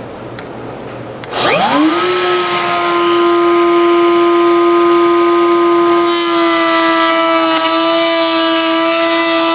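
Router with a roundover bit spinning up about a second in, its pitch rising quickly and settling into a steady high whine as it rounds over the edge of a cleat. The whine's tone shifts slightly a little past the middle.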